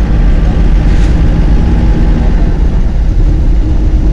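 Steady, loud low rumble of a road vehicle on the move: engine and road noise.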